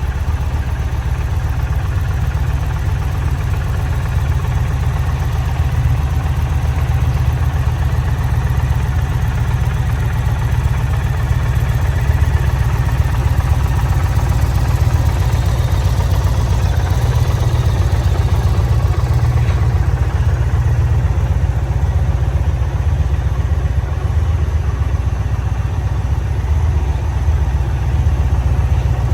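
Indian Challenger's liquid-cooled PowerPlus V-twin engine idling steadily with a low rumble.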